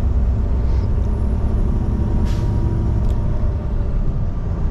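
Semi truck's diesel engine running steadily while driving, a constant low rumble, with a brief hiss about two seconds in and a small click about a second later.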